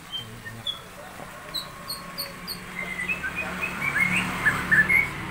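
Caged songbirds singing in short, quick chirps and trills over a low steady hum, the chirping becoming denser and louder from about halfway through.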